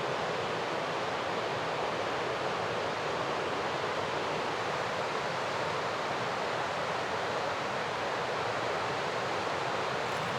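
Mountain river rushing: a steady, even rush of moving water.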